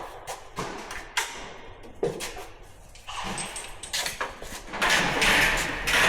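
Metal tools clinking and knocking, then about three seconds in a rushing hiss of compressed air from a shop air line that grows louder toward the end.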